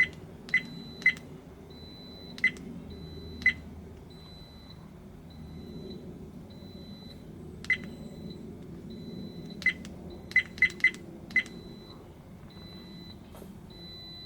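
Redtiger dashcam giving short electronic button-press beeps as its menu buttons are pressed to set the clock: about eleven beeps at an uneven pace, a few close together near the end, over a faint steady background hum.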